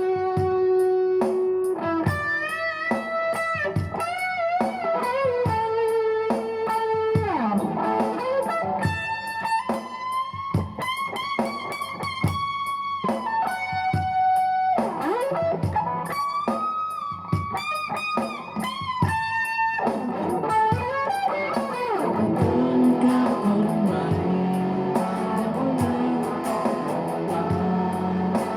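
Electric guitar playing sustained lead notes with string bends and slides, then from about two-thirds of the way in, fuller, lower chord playing.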